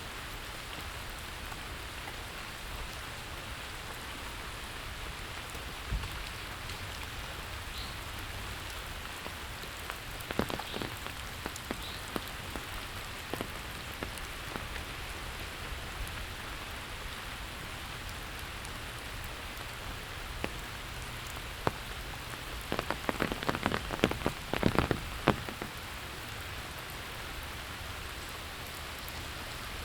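Steady rain falling on streets and surfaces, an even hiss of drops. Clusters of louder, sharper taps come about a third of the way in and again, denser, near the end.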